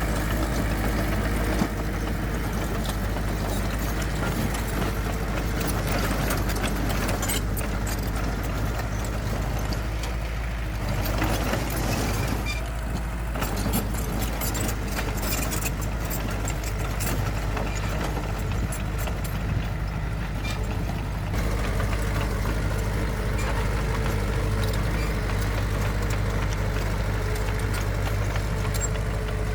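Heavy diesel engine of earthmoving machinery running steadily, a low even drone, with scattered clicks and rattles through the middle.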